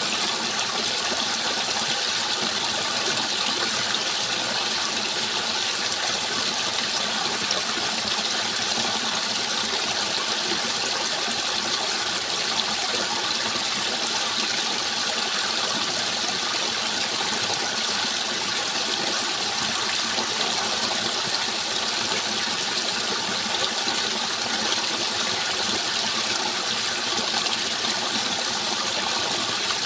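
Running water rushing steadily and unbroken, like a stream or small waterfall.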